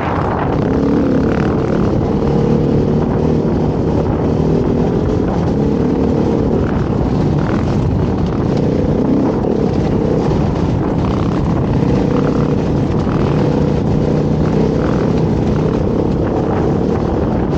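Dirt bike engine running under way, its note holding fairly steady and wavering a little with the throttle.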